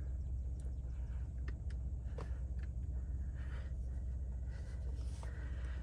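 Steady low hum of an idling tow vehicle heard inside the cab, with a few light clicks from the controls as tow mode is selected.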